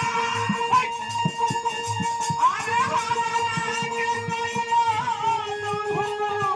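Folk stage music: a long held melody line that bends and slides, over a steady pattern of drum hits.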